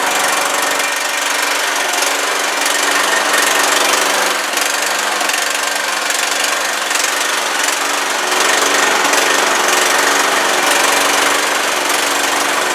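Riding lawnmower engine running steadily, loud and rough, with only slight rises and dips in level.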